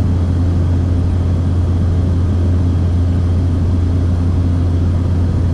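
Steady drone of a light propeller aircraft in cruise, heard inside the cabin, with a strong, even low hum under the engine and airflow noise.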